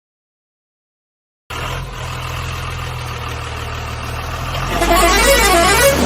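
Dead silence for about a second and a half, then a steady vehicle engine running sound, which grows louder near the end as a wavering tone swinging up and down in pitch joins in.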